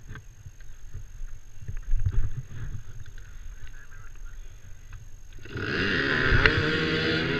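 Dirt bike engines at an enduro start line revving together, rising abruptly about five and a half seconds in into a loud, dense mix of wavering engine notes. Before that there is only a low rumble with scattered knocks.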